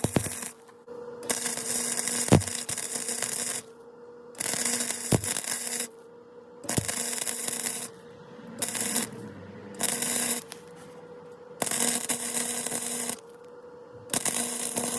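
Welding on a car's exhaust pipe: about seven crackling, hissing bursts of one to two seconds each, with short pauses between them as the weld is laid around the joint. A steady hum runs underneath.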